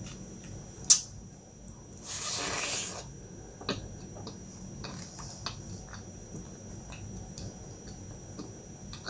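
Close-miked eating sounds of a woman biting into and chewing a soft mini burnt basque cheesecake: a sharp click about a second in, a brief hiss around two seconds, then soft chewing with small wet clicks and smacks.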